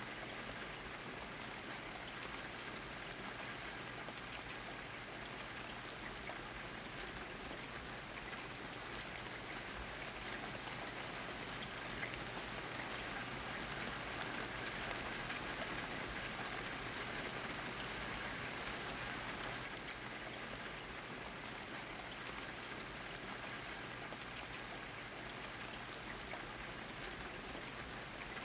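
Steady rain with the patter of drops falling on a surface, a little heavier for a few seconds in the middle.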